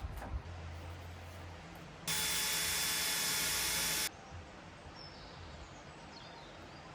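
A cordless drill runs at a steady speed for about two seconds, starting and stopping abruptly, as the solar light is fixed back in place.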